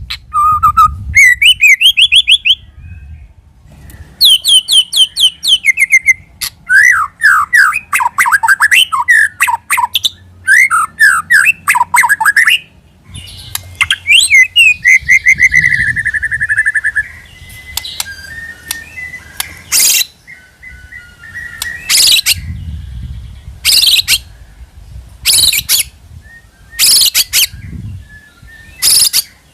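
White-rumped shama (murai batu) singing loudly: varied phrases of rapid whistled trills and slurred notes, then short harsh notes repeated about every two seconds in the second half.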